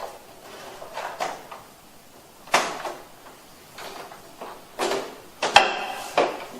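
Plastic front panel of a wall-mounted air conditioner's indoor unit being handled and snapped into place: a series of sharp plastic clicks and knocks, the loudest about two and a half seconds in and several more between five and six seconds in.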